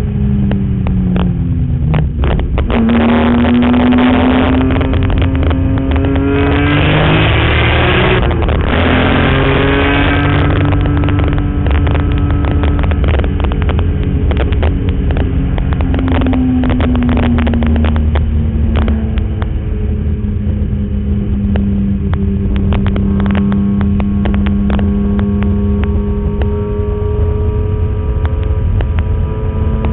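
BMW E46 M3's 3.2-litre inline-six running hard on track: the revs fall, then climb for several seconds, drop once about eight seconds in at a gear change, climb again, and settle to a steadier note for the second half. Many short crackles sit on top.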